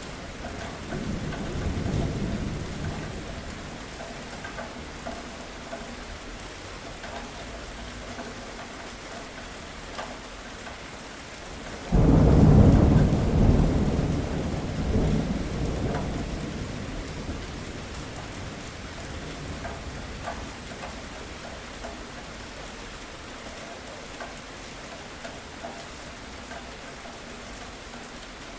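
Steady rain falling, with a low roll of thunder about two seconds in and a sudden loud clap of thunder about twelve seconds in that rumbles away over several seconds.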